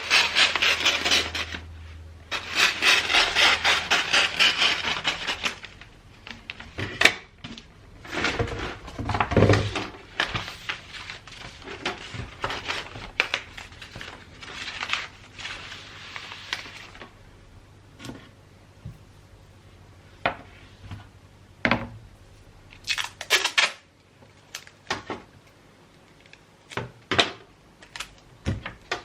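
Wrapping paper being handled: long stretches of rustling and crinkling, the loudest in the first few seconds, broken up by scattered light taps and clicks.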